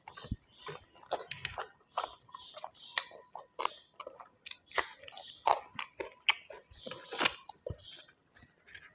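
A person chewing and biting food: wet chewing sounds mixed with crisp crunches, several a second.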